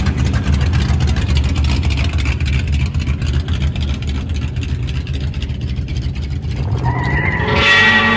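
Several traditional hot rod engines rumble steadily at cruising speed as the cars run side by side. Near the end an engine revs up, its pitch rising.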